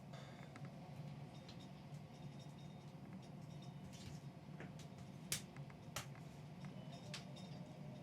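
Low steady hum with scattered faint clicks and ticks, and two sharper clicks a little after the middle.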